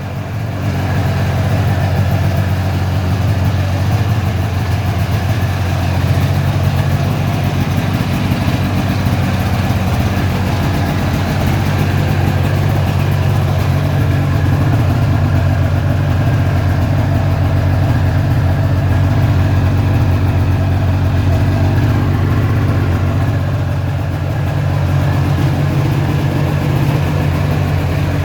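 The swapped-in 670cc Rotax two-stroke engine of a 1998 Ski-Doo Formula Z snowmobile, running steadily at idle.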